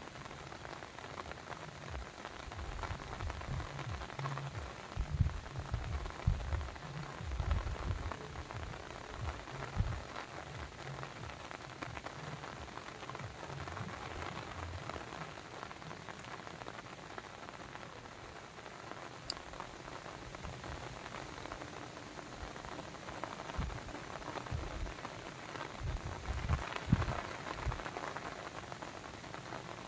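Steady, dense patter of water with no tune or voice, joined by irregular low rumbles a few seconds in and again near the end.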